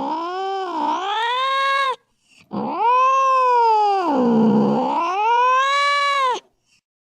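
Domestic cat caterwauling: two long, drawn-out yowls that sag and rise in pitch, the first ending about two seconds in and the second lasting nearly four seconds.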